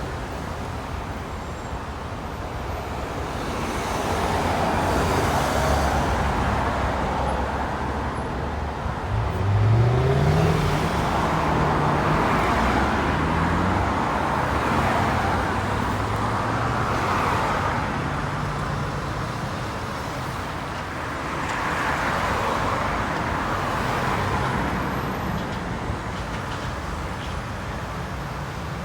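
Road traffic passing close by: several vehicles go past one after another in swells of tyre and engine noise, and about ten seconds in an engine pulls away with a rising note.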